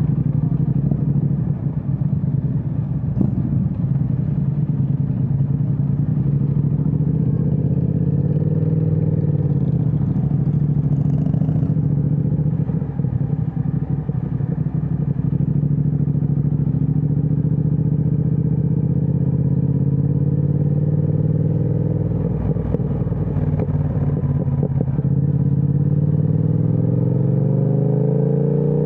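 Triumph Speed Twin 1200's parallel-twin engine through a Vance & Hines aftermarket exhaust, cruising at a steady pace with small changes of throttle. The engine note climbs near the end as the bike accelerates.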